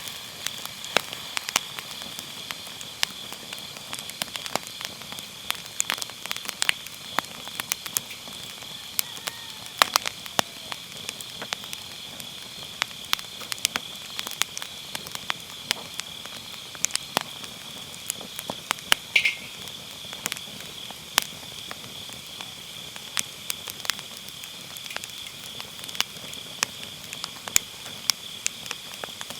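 Firewood burning in a round fire pit, crackling and popping in irregular sharp snaps. Under it, a steady high chorus of autumn crickets and other grass insects keeps up throughout.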